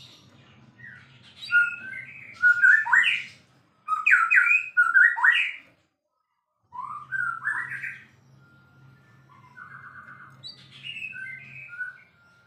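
White-rumped shama (murai batu) singing, a rapid, varied string of whistled and chirping phrases, loudest in the first half. The song breaks off briefly about six seconds in, then softer phrases resume. A low steady hum runs underneath.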